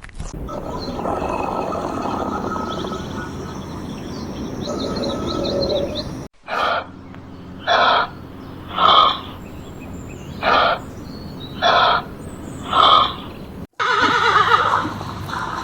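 Animal calls in three separate short clips. The middle one is a run of seven short, loud calls at roughly one a second, and a different noisier clip begins near the end.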